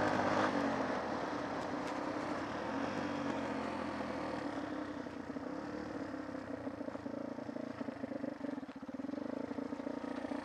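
Off-road motorcycle engine running while being ridden, fairly steady in pitch. It is loudest at first and eases off over the first few seconds, with a brief dip near the end.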